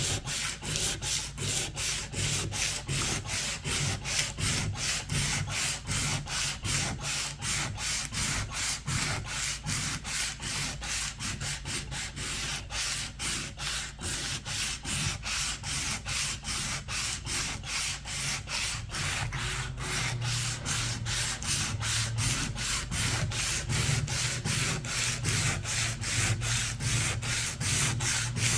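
Hand sanding: sandpaper rubbed back and forth over an old paint finish in steady, even strokes, about two to three a second.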